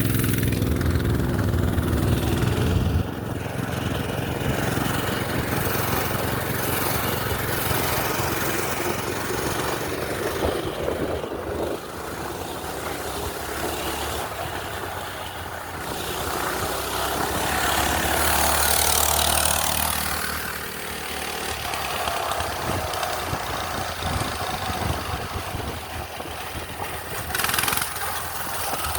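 A minibike's small gasoline engine running. It is loud and low at first, drops off about three seconds in, then rises and falls in pitch as it is ridden, with wind rushing over the microphone.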